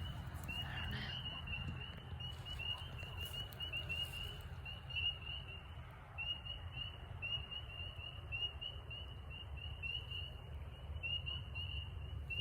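Chorus of spring peepers calling: a steady run of short, high-pitched, slightly rising peeps, several a second.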